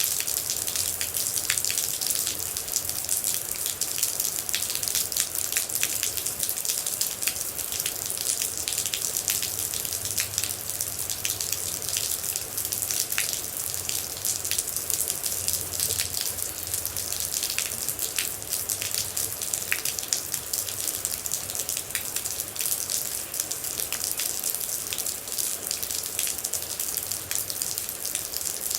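Steady rain, a dense high hiss with many distinct drops and drips striking close by.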